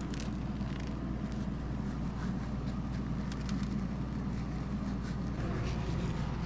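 A steady low mechanical hum, with a few faint light ticks scattered through it.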